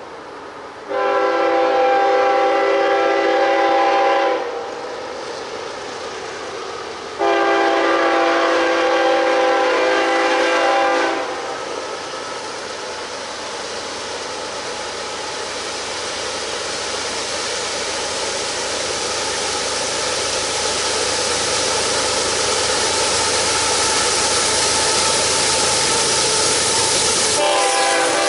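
A locomotive horn sounds two long blasts, each about three to four seconds. The noise of the train then grows steadily louder as it comes through, and the horn starts again right at the end.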